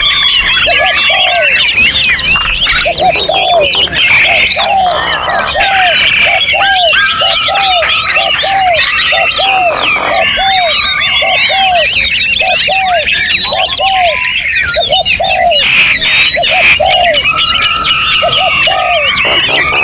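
Many songbirds singing at once: a dense, continuous chorus of overlapping chirps, trills and whistles, with a low arched note repeated about twice a second beneath it.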